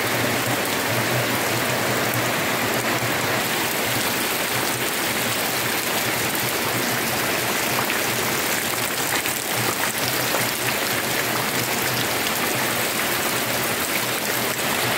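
Heavy rain falling steadily on open ground and vegetation, a constant even hiss.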